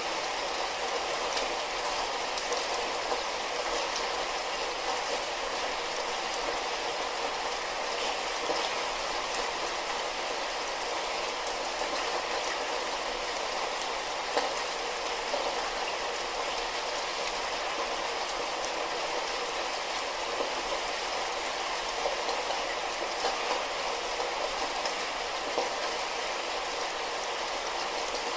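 Steady light rainfall: an even hiss of rain with scattered individual drops ticking.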